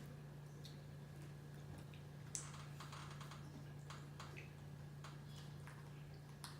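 Faint, irregular small clicks and ticks over a steady low hum, with one slightly louder click a little past two seconds in.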